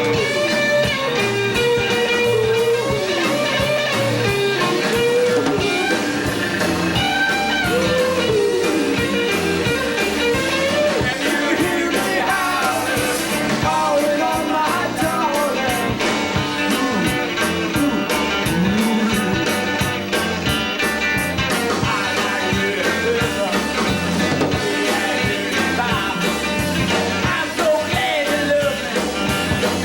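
Rock band playing a song: electric guitar lines with bends over bass and a steady drum beat, with some singing.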